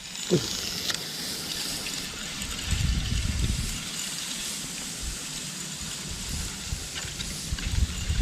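Strong wind gusting against the microphone, with low rumbling buffets that come and go over a steady rushing hiss.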